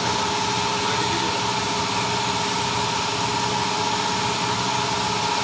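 A machine running steadily, a constant hum with a steady whine over it.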